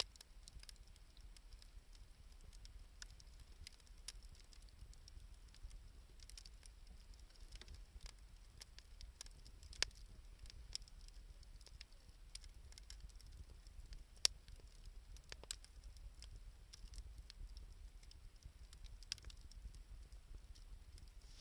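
Wood fire of scrap 2×4 lumber and scavenged wood crackling faintly, with scattered small ticks and two sharper snaps, one near the middle and one about two-thirds of the way through.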